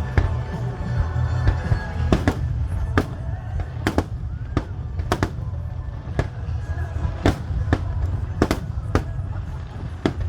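Aerial fireworks shells bursting, about a dozen sharp bangs at irregular intervals, some in quick pairs, over a steady low rumble. Music plays underneath.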